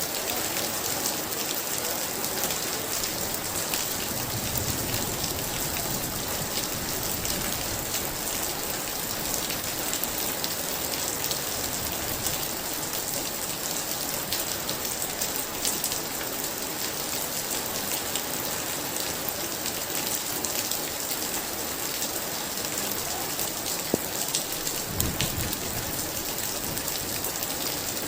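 Very heavy rain falling steadily, a dense patter of drops on hard surfaces. A low rumble of distant thunder comes in near the end.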